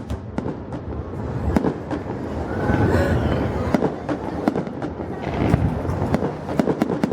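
Aerial fireworks display going off: a continuous run of bangs and crackles, many overlapping, with no pause.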